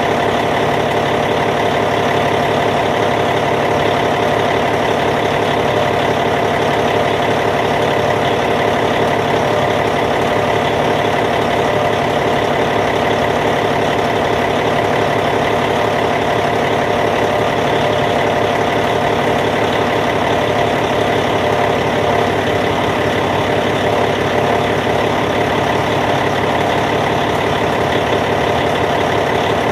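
Caterpillar C15 diesel engine of a Cat D8T bulldozer idling steadily, with no change in speed.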